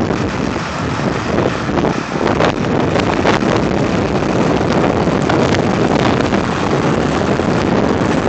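Tractor engines running, largely buried under loud wind buffeting on the microphone.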